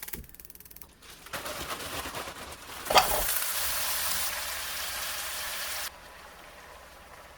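Food sizzling in a hot frying pan, with a sharp knock about three seconds in after which the sizzle gets louder and steady, then drops off abruptly about six seconds in.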